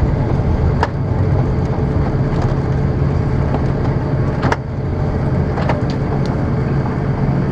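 Airbus A330 cabin noise on the ground after landing: a steady low rumble of the engines and wheels with a faint steady hum. A few short sharp knocks, about a second in and again midway.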